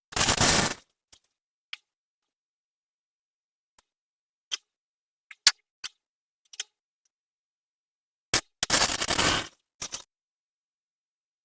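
Flux-core welder arc crackling in short bursts on thin steel exhaust pipe: one of under a second near the start and another of about a second near the end, with scattered sharp clicks in between.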